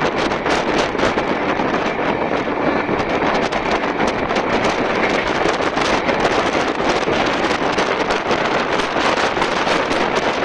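A fast express train running, heard from on board: a steady rush of wind and running noise with many quick rattling clicks throughout, and wind buffeting the microphone.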